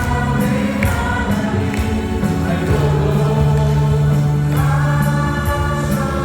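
A worship band with several singers, keyboards, drums and acoustic guitar performing a contemporary Korean praise song, the voices singing together over held keyboard chords and a light cymbal beat.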